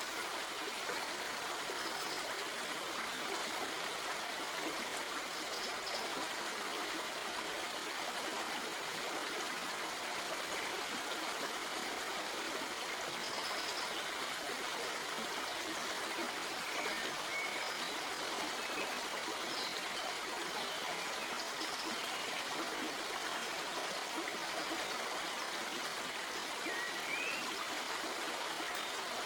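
Stream flowing over rocks: a steady rush of water with trickling.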